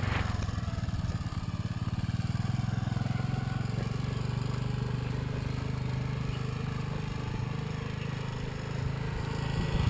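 Small motorbike engine running steadily at an even pace, a little louder near the end.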